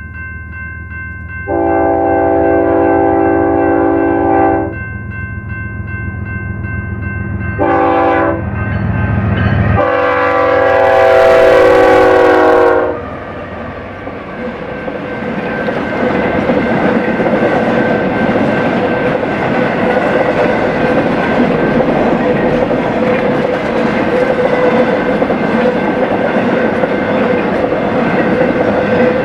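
BNSF freight locomotive's air horn sounding three blasts, long, short, long, over the rumble of its diesel engine. The train's cars then roll past with a steady clattering rumble of wheels on rail.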